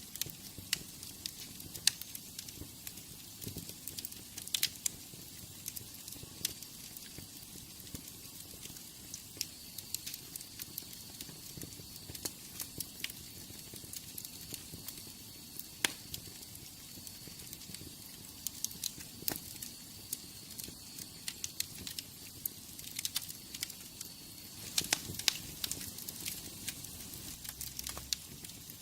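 Wood fire in a fireplace crackling, with irregular sharp pops and snaps over a steady hiss. A faint thin high whistle runs through the middle stretch.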